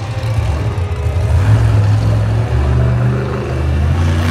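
Monster truck engine running at a low, steady speed, its deep note barely changing. The truck has engine problems, which the announcer describes as an issue with the engine.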